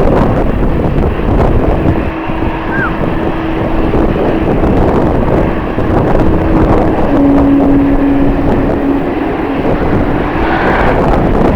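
Strong wind buffeting the microphone in a loud, uneven rumble, with a faint steady hum underneath.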